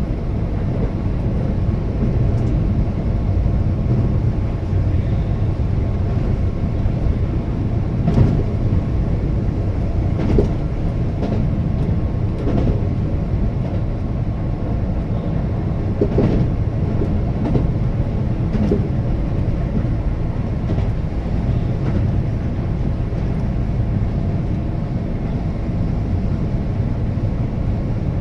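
Keihan Electric Railway limited express train running at speed, heard from inside the front car: a steady rumble from wheels and running gear, with occasional sharp clacks.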